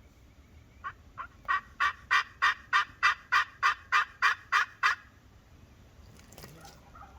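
A run of about a dozen turkey yelps, about three a second, starting soft and growing louder before stopping short.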